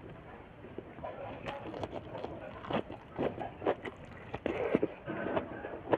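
Close-up eating sounds: chewing and wet mouth smacks from someone eating, coming as irregular short clicks several times a second, bunched together near the end.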